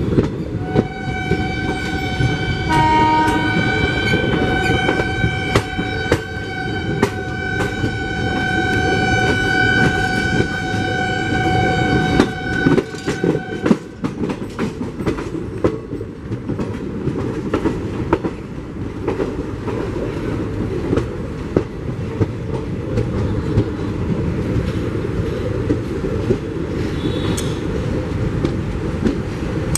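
Passenger coach running at speed, heard from an open coach door: a constant rumble with wheels clicking over rail joints and points. A locomotive horn holds one long steady note through the first half and cuts off about thirteen and a half seconds in.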